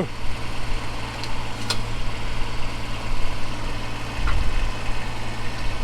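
Kubota BX23s compact tractor's three-cylinder diesel engine running steadily, with a faint click just under two seconds in.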